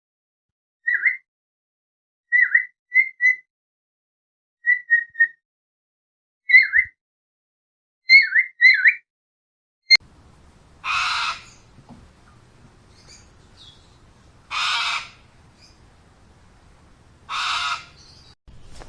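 Bird calls: a fiery-billed aracari gives a run of short, sharp, down-slurred chirps in ones, twos and threes. Then a cockatoo gives three loud, harsh screeches, each under a second long and spaced about three and a half seconds apart.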